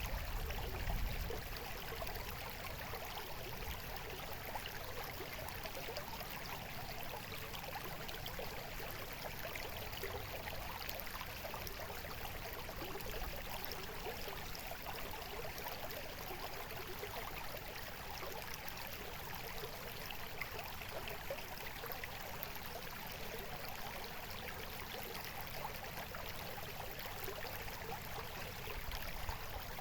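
Stream of water trickling and babbling steadily, with a brief low rumble about a second in.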